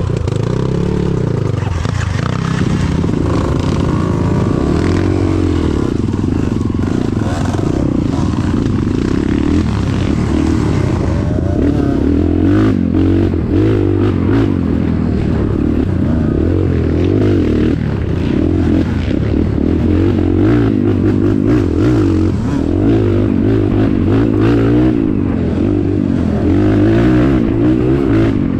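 Motorcycle engine running under way on a rough trail, its revs rising and falling over and over, with rattling and knocks from the bike over bumps.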